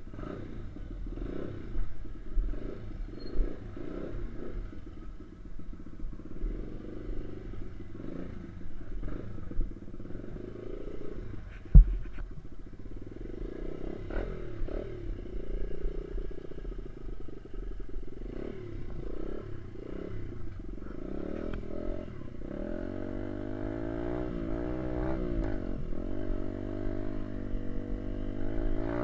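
Small dirt bike engine running while being ridden, its pitch rising and falling with the throttle, more steadily revved up and down in the last few seconds. A single sharp knock about twelve seconds in.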